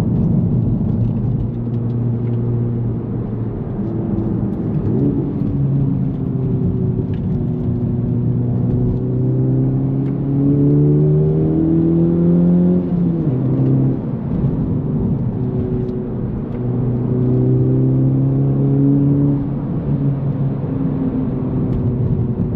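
Honda Civic Type R FL5's turbocharged four-cylinder engine and AWE Touring exhaust heard from inside the cabin while driving. Its pitch rises under acceleration, then drops suddenly with a gear change about 13 seconds in and again near the end.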